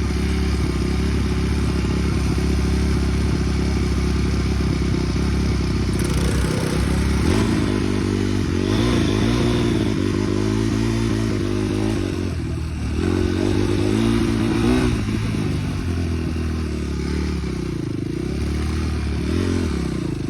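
Small off-road vehicle engine running under way, the throttle held steady at first and then repeatedly revving up and easing off.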